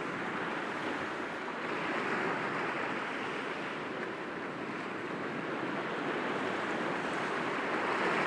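Sea waves breaking gently against rocks, a steady wash of surf that swells about two seconds in and again near the end.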